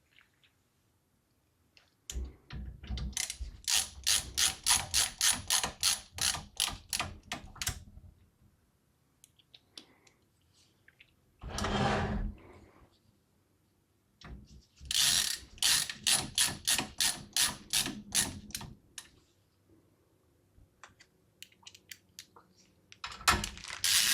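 Ratcheting screwdriver clicking in steady runs of about three to four clicks a second, with pauses between runs, as screws are driven in to secure a graphics card in a PC case. A single short, noisy sound comes about halfway through.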